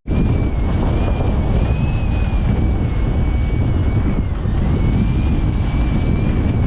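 Strong wind buffeting the microphone on a sailing yacht, a steady rumble, with a thin high whistle that wavers slightly in pitch and stops just after the end.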